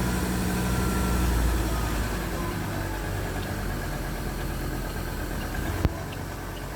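A vehicle engine running steadily with a low hum that drops in level after about two seconds, and one sharp click near the end.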